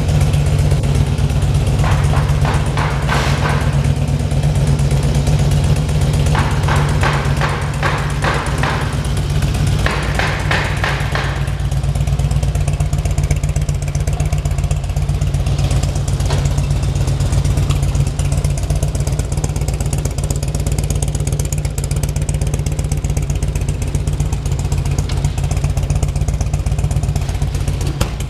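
2003 Harley-Davidson FLHTCUI's Twin Cam 88 V-twin engine running at idle, with three short rises in the first twelve seconds that sound like blips of the throttle.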